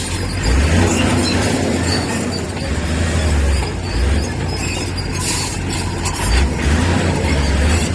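Diesel engine of heavy earthmoving machinery running under varying load, its low rumble swelling and easing several times, with a brief scraping noise about five seconds in.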